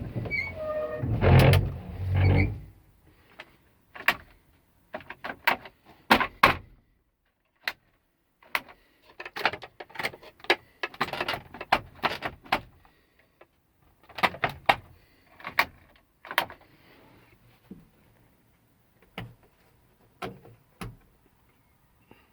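A short, loud whirring burst about a second in, then scattered sharp clicks and knocks, some in quick runs, thinning out near the end.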